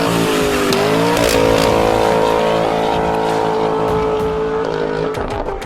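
2019 Dodge Challenger's engine through a custom exhaust with Carven mufflers, revved up about a second in and held at a steady high rev before dropping back near the end.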